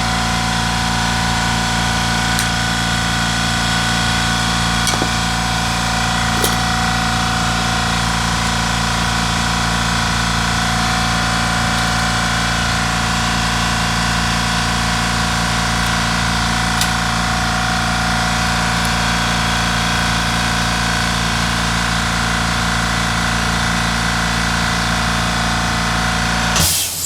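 Italjet Griffon GF125 motorcycle engine idling steadily, running again after its clogged carburetor has been cleaned. It stops abruptly near the end.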